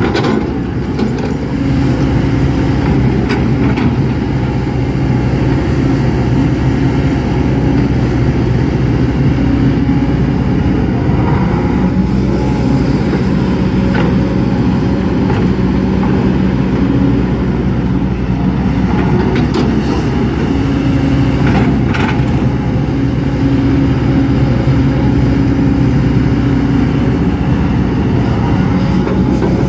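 Kobelco hydraulic excavator's diesel engine running steadily under working load, its tone shifting slightly as the hydraulics work, with a few short clanks.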